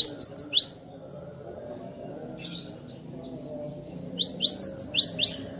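Cinereous tit (gelatik batu) singing: a quick burst of sharp, high notes with rising sweeps at the start, then a louder run of about six such notes about four seconds in, over a low background hum.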